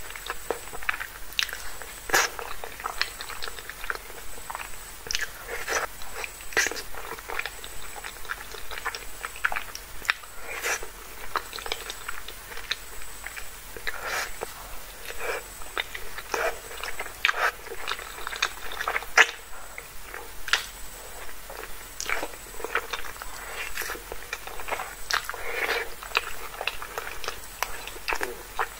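Close-miked chewing of creamy Alfredo pasta, with irregular wet mouth clicks and smacks coming several times a second.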